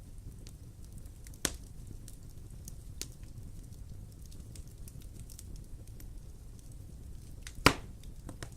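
Wood fire crackling in a fireplace: a low steady rumble with scattered small snaps, and two sharp pops, one about a second and a half in and a louder one near the end.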